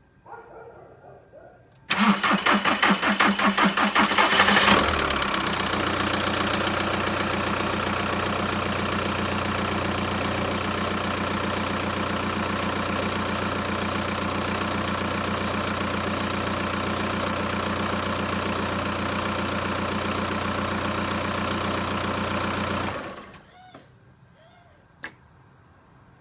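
Volkswagen New Beetle 1.9 TDI four-cylinder turbodiesel being cranked by the starter for about three seconds before it catches, then idling steadily until it is switched off near the end; the car is shown for its hard-starting problem. A single short click follows the shutdown.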